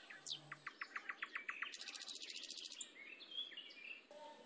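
Small birds calling: a quick run of about ten sharp chirps, then a high, buzzy trill lasting about a second, followed by a few fainter chirps.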